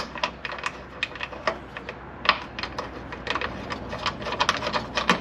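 Hand ratchet wrench clicking in short, irregular runs as bolts are run down and tightened.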